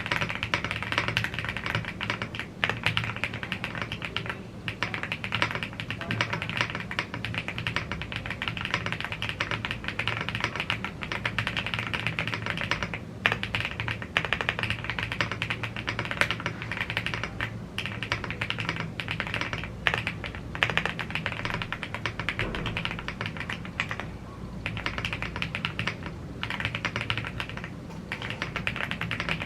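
Steady, fast typing on a YUNZII AL75 gasket-mounted aluminium mechanical keyboard with Blue Grey tactile switches and double-shot PBT Cherry-profile keycaps: a dense run of key clacks with a few brief pauses.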